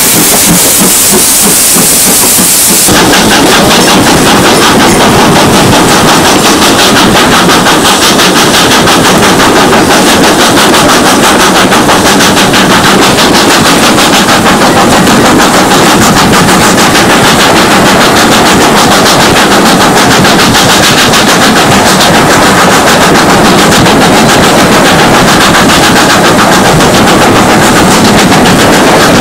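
Steam locomotive working hard, its exhaust beats coming in a fast, even, machine-gun-like rattle, recorded loud enough to distort. It opens with a loud hiss that cuts off suddenly about three seconds in.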